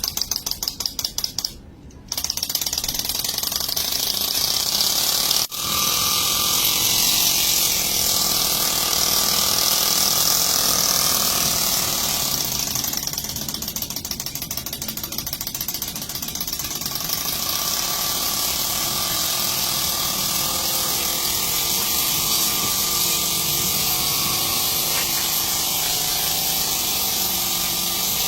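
A gas torch lighter clicks rapidly several times, then burns with a steady jet-flame hiss that carries on, with a brief break about five seconds in.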